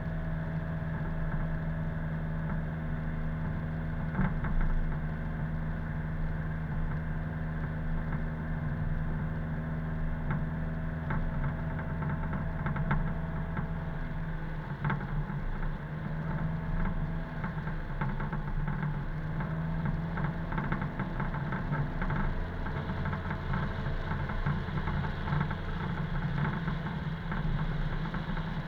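Car engine running steadily while driving, with scattered light knocks and clicks; the engine note shifts about halfway through.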